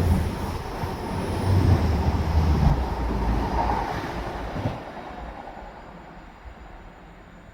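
A passing train running by close at hand, a loud rumbling rush that fades and drops off abruptly about two-thirds of the way through, leaving only faint background noise.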